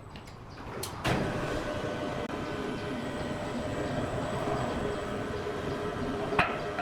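Heavy sawmill machinery: a knock about a second in, then a steady rumbling mechanical run with a faint hum, and another short knock near the end.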